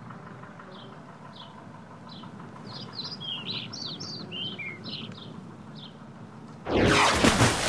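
Small birds chirping: short, high chirps every second or so, with a busier flurry of several birds' calls in the middle. Near the end, a sudden loud burst of rushing noise cuts in over them.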